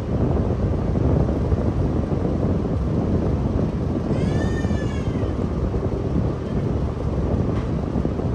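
A seagull gives one drawn-out, arching call about four seconds in, over a steady low rush of surf or wind.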